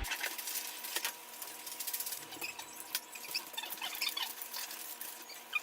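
A present being wrapped: paper crinkling and rustling with scattered clicks. A run of short, high squeaks comes about two-thirds of the way through.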